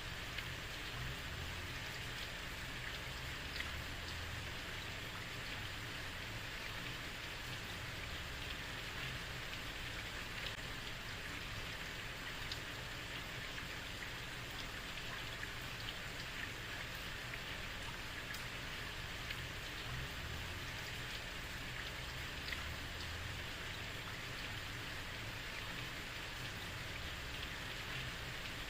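Heavy rain falling steadily on a street, an even hiss with scattered sharper drop hits and a low rumble underneath.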